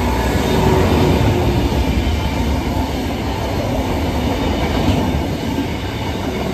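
Diesel rail grinding train passing close by: a steady, loud rumble of its engines and wheels on the track.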